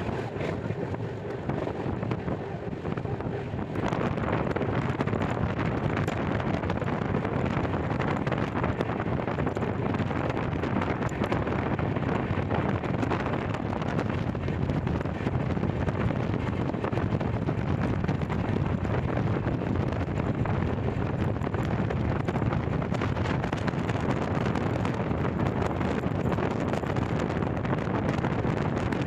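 Wind buffeting the microphone from a moving passenger train, over the train's steady running rumble. It gets louder about four seconds in and then holds steady.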